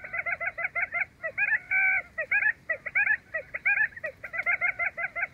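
Wild quail calling: a rapid run of short chirping notes, several a second, broken by a few longer held notes about two seconds in.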